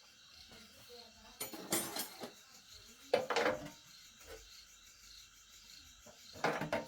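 Small metal pieces clinking and clattering against each other in three short bursts: about a second and a half in, around three seconds in, and near the end.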